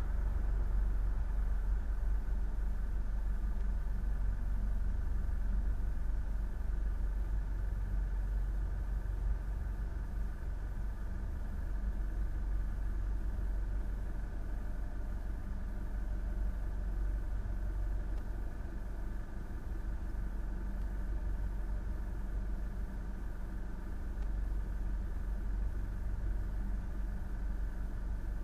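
An engine running steadily at an even speed: a low drone that holds its pitch throughout.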